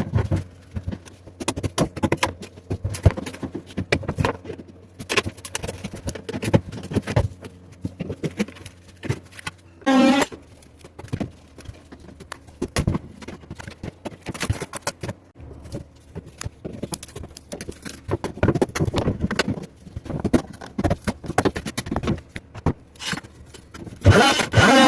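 Irregular knocks, taps and scrapes of hand tools working at old fiberglass being pried and peeled off a boat's side. A short pitched sound cuts in about ten seconds in, and again near the end.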